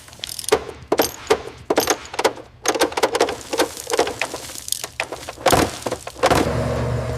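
Workshop hand-work noises: a quick, irregular series of knocks, clicks and clatters, then a steady machine hum starts near the end.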